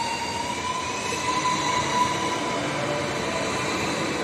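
Renfe Cercanías Civia electric commuter train pulling away from the platform. It runs with a steady rumble, under a whining tone that rises slightly in pitch as it gathers speed.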